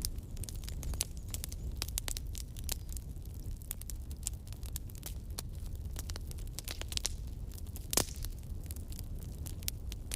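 Campfire crackling: burning wood snapping and popping irregularly over a low steady rumble of flame, with one louder pop about eight seconds in.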